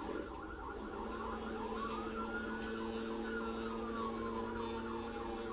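Police car siren sounding during a pursuit, with quick repeated up-and-down sweeps and a slower wail that rises and then falls. A steady low drone runs beneath it.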